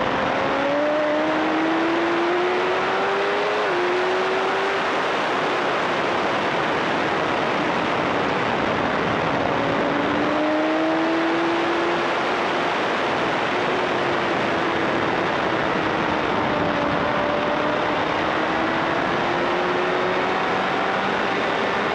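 Motorcycle engine running hard on a race track under a heavy rush of wind noise. The engine pitch climbs, steps down at a gear change about four seconds in, then rises and falls with the corners.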